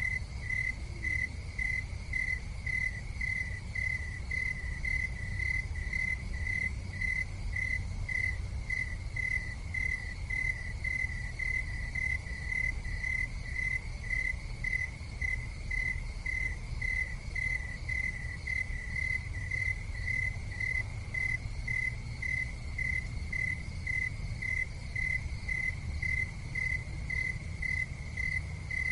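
An insect chirping steadily in even, high-pitched pulses, about two chirps a second, over a low rumble.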